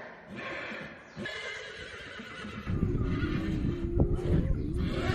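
Horse neighing: a loud, quavering whinny that starts about two and a half seconds in, after a few short breathy, hissing bursts.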